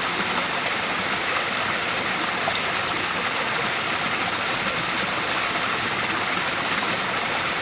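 Waterfall: steady rushing, splashing water with no break or change.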